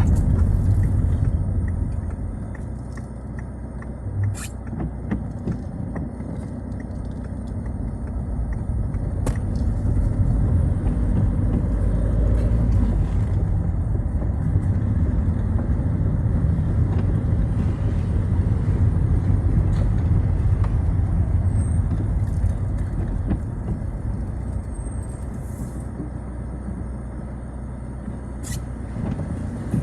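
Citroën Xsara driving on a wet road in the rain: a steady low engine and tyre rumble that builds and then eases with speed, with a few sharp clicks.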